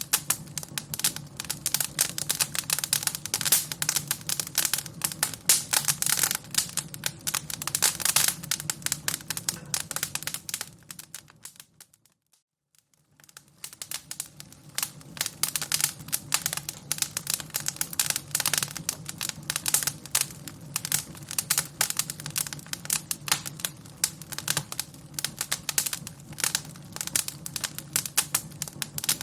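Fire crackling: a dense, irregular run of sharp pops and crackles over a low steady rumble. Partway through, the crackling fades almost to silence for about a second, then builds back up.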